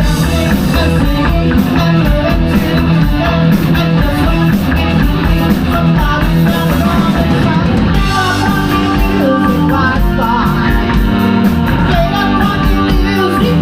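A rock band playing live: electric guitars, bass and drums at a steady loud level, with a singing voice coming in over them in the second half.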